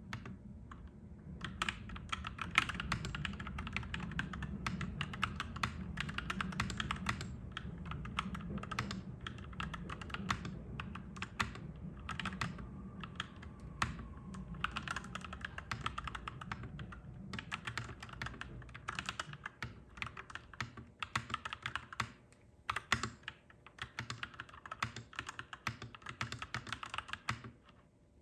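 Steady typing on a clacky mechanical keyboard, dense runs of key clicks broken by short pauses. Under it a low rumble that fades out about two-thirds of the way through.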